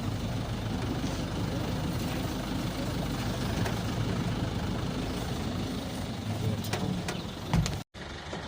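Safari vehicle's engine running steadily at low revs. A short knock comes near the end, just before the sound cuts off abruptly.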